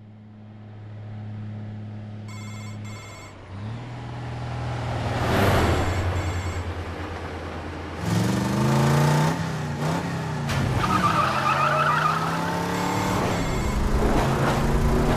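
Movie-trailer sound mix: a low hum swells up, with a short double electronic ring about two seconds in. From about eight seconds in, car engines rev up and down over rushing road noise.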